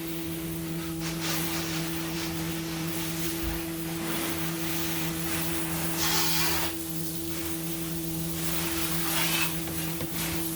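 A steady low mechanical hum, like a motor running, under a constant hiss, with short bursts of louder rustling noise about six and nine seconds in.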